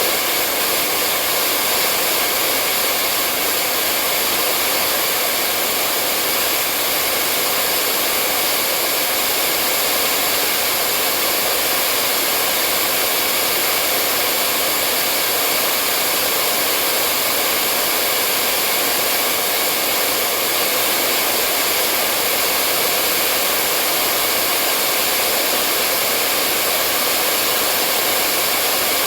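Hair dryer blowing steadily, a constant even whoosh of air and fan hiss.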